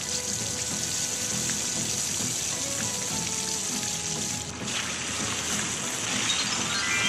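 Steady rush of running water, a cartoon sound effect, over light background music. The water sound dips briefly about four and a half seconds in, and a rising run of chime-like notes comes in near the end.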